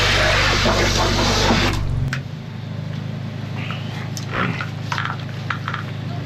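A drain jetter's engine running with a rushing spray of high-pressure water, cutting off abruptly about two seconds in. Scattered light clicks and knocks follow.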